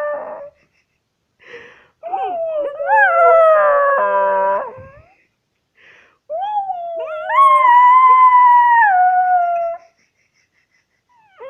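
A pet dog howling in long, wavering calls whose pitch bends up and down. There are two main howls with short gaps between them, and the second rises and then steps down in pitch near its end.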